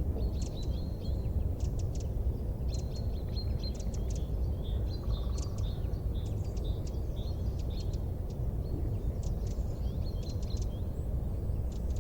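Small birds chirping and twittering in quick clusters of short high notes, over a steady low rumble.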